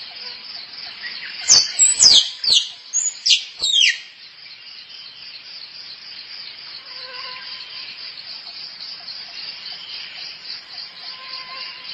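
Squirrel calling: a quick series of about six loud, sharp calls, each falling steeply in pitch, about a second and a half in. It sounds over a steady, pulsing insect chorus.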